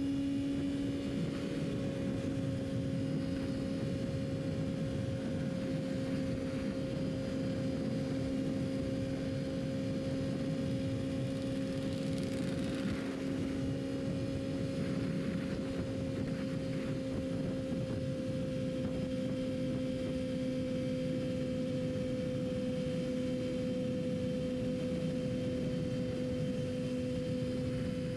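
Yamaha R6 inline-four sport bike engine cruising at a steady engine speed, its note holding one pitch with only a slight sag in the first second, under steady wind and road noise.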